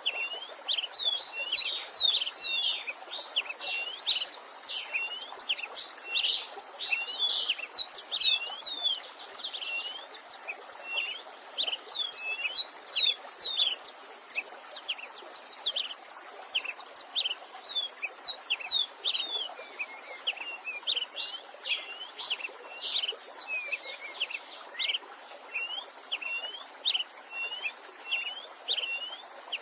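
Several wild songbirds chirping and singing in a dense, continuous chorus of quick sweeping notes, over a faint steady rush of a stream.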